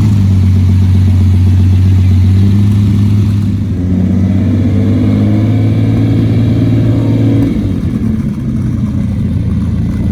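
A car engine running at a steady low note. Its tone fills out about three and a half seconds in, then eases off a little near the end.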